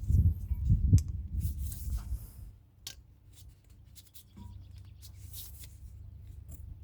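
Hands working a steel brake-pad retainer clip into a caliper bracket: a run of dull knocks and rustling for the first couple of seconds with a few sharp metallic clicks, then only a faint low hum.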